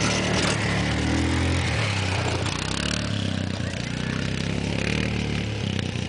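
ATV engine running with a steady note that rises and falls a little, strongest a second or two in.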